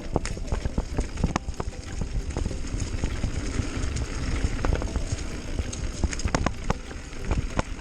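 Mountain bike rolling down a rough dirt trail: a steady low rumble from the tyres, with frequent irregular rattles and knocks from the bike jolting over bumps.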